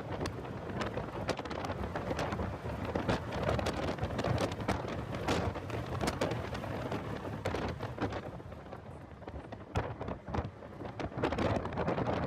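Heavy wind buffeting on the microphone of an onboard camera in a car lapping a race track, a dense rushing roar full of crackling pops that swamps the engine and tyre sound.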